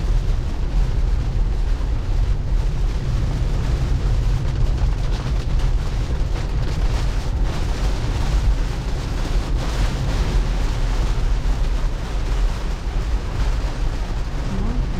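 Heavy rain and tyres on a soaked road, heard inside a Tesla's cabin as a loud, steady rumble and hiss, with a stronger wash of spray about halfway through.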